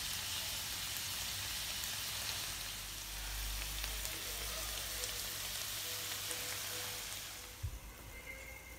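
Shrimp frying in oil in a nonstick pan, a steady hissing sizzle that drops off sharply near the end, followed by one sharp knock.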